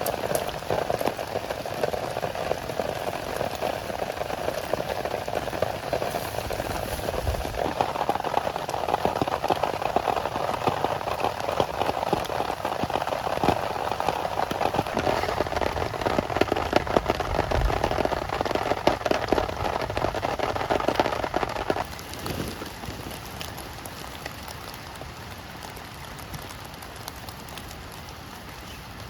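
Heavy rain falling, a dense patter of many drop impacts. About two-thirds of the way through it becomes noticeably quieter.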